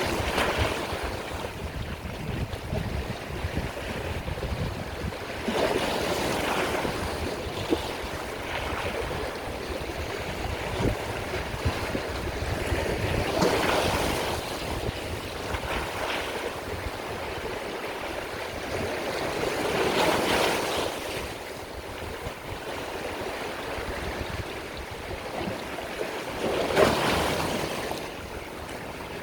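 Sea waves breaking and washing in, with a surge about every six to seven seconds, five in all.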